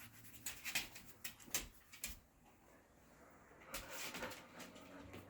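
Faint scuffs and clicks from dogs moving about close by, then a short breathy sound about four seconds in, like a dog panting or sniffing.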